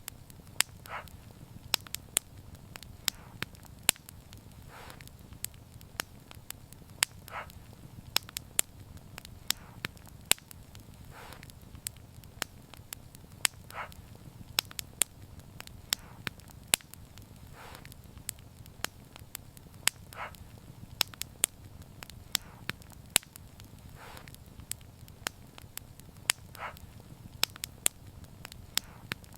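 Wood fire crackling: frequent sharp, irregular pops and snaps over a low, steady rumble of burning flames.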